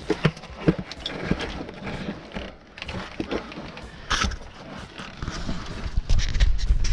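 Irregular scrapes, knocks and rustling of a person climbing over rock, with a sharper scrape about four seconds in and low rumbling handling noise near the end.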